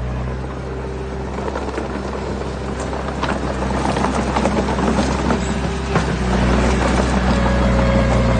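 Heavy earthmoving machine's diesel engine running steadily, with a dense clatter and grinding of stones building from about three seconds in and growing louder toward the end.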